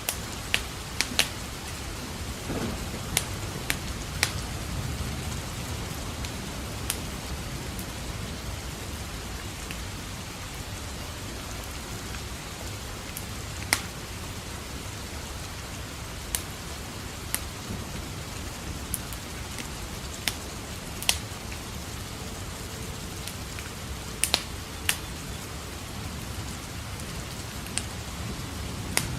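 Steady rain with the scattered sharp crackles and pops of a wood fire in a fireplace, a dozen or so over the stretch. Low thunder rumbles softly a few seconds in, and another roll begins at the very end.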